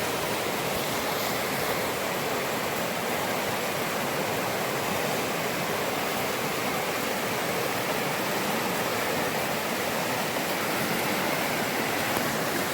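Creek water rushing steadily below a log crossing, an even roar of fast-flowing water with no break.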